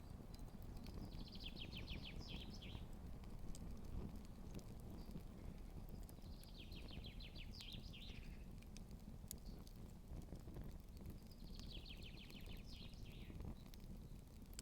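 A songbird singing three short, rapid trilled phrases about five seconds apart, over a steady low rumble and faint scattered crackles from the campfire.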